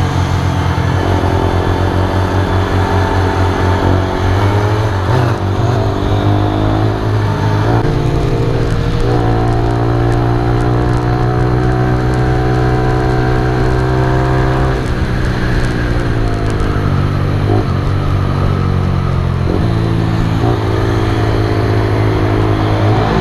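Keeway RKS 125's single-cylinder engine running while riding: its note climbs, holds steady for several seconds at cruising speed, then drops about two-thirds of the way through and shifts up and down after that. Wind noise on the microphone.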